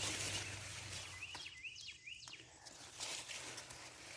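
Sweet potato vines and leaves rustling and crackling as they are pulled back by hand. About a second and a half in, a bird gives a quick run of four short rising chirps.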